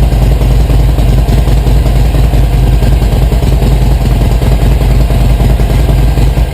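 Harley-Davidson Iron 883's air-cooled V-twin running steadily through its modified stock mufflers, a loud, deep exhaust note.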